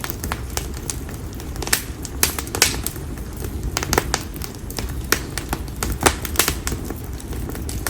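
Split konara oak firewood burning in an open campfire, popping and crackling with irregular sharp snaps, some louder than others, over a steady low rumble of the flames.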